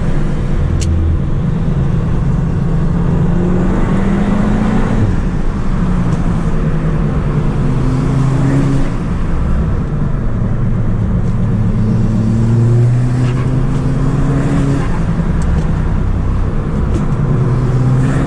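Audi S3 8P's turbocharged 2.0 TFSI four-cylinder, fitted with an aftermarket downpipe, pulling hard under acceleration. Its pitch climbs and drops back several times as the car works through the gears.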